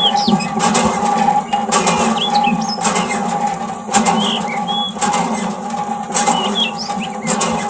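Small birds chirping in short scattered calls over a steady hum, with a few sharp clicks.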